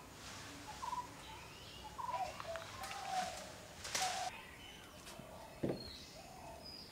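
Birds calling outdoors: a short call repeated twice about a second apart, among other chirps and whistles. There is a brief hissing burst about four seconds in and a single sharp knock just before six seconds.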